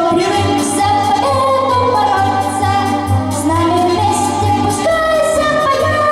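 A voice singing a song in long held notes over an instrumental accompaniment with a steady beat.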